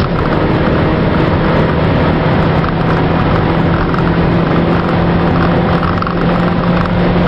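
Mazda Demio (Mazda2) engine pulling hard in gear, heard from inside the cabin over road and tyre noise. The engine note drops in pitch at the very start, as after an upshift, then holds steady.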